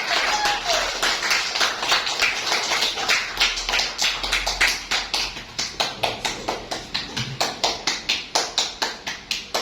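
A few people clapping. The claps settle into a steady rhythm of about four a second in the second half.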